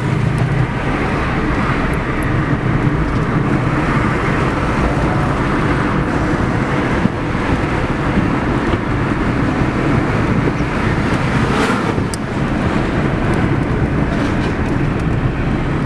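Steady road vehicle noise, engine and tyre sound of traffic on the move, with a single sharp click about twelve seconds in.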